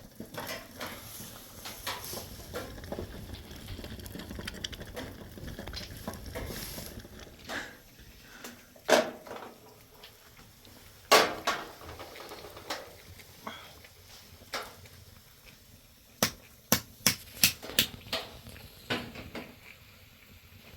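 Scattered knocks and clinks of cooking pots and utensils, with a quick run of sharp clicks late on.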